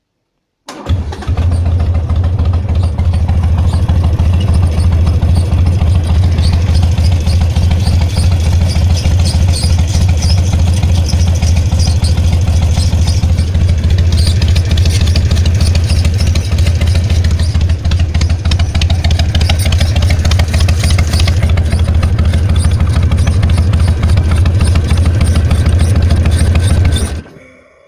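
2004 Harley-Davidson Sportster's air-cooled V-twin engine starting abruptly, then idling steadily and shutting off near the end. It carries an odd noise that the owner calls bad.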